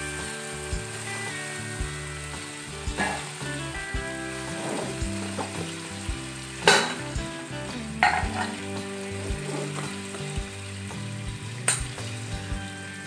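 Onions and freshly added chopped tomatoes frying in oil in an aluminium kadhai: a steady sizzle, with four sharp knocks, the loudest about seven seconds in.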